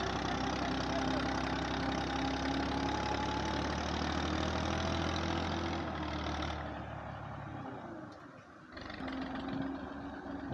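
Massey Ferguson 240 tractor's three-cylinder diesel engine running steadily under load while it strains to pull a loaded trolley out of mud. About eight seconds in the sound fades away briefly, then the engine comes back.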